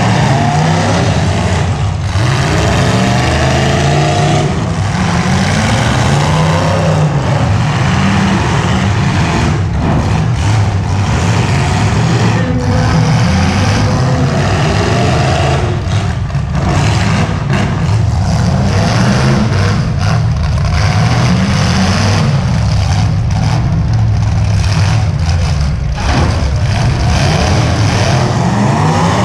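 Several demolition derby cars' engines running and revving hard, the pitch rising and falling again and again, with sharp bangs here and there from cars colliding.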